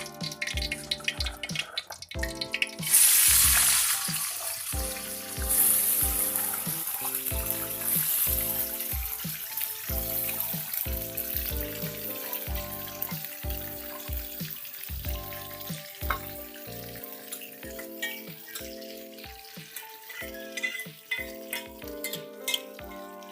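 Food dropped into hot oil in a pan, a loud sizzle starting about three seconds in and slowly dying down as it keeps frying.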